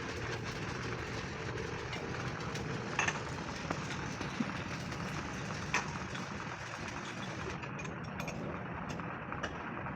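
A steady mechanical drone, like an engine or workshop machine running, with a few sharp knocks, about three and six seconds in.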